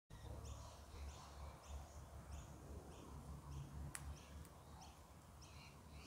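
A small bird chirping over and over, short high notes about one and a half a second at an even pace, over a low rumble. A single sharp click about four seconds in.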